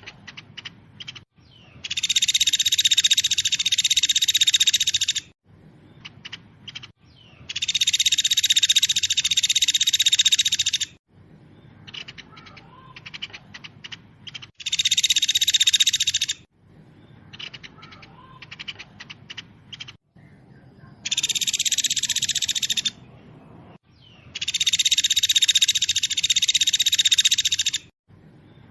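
Recorded songbird song of the fast, tightly packed 'speed rapat' kind: five bursts of very rapid high song, each two to four seconds long, with short sharp chip notes in the gaps between them.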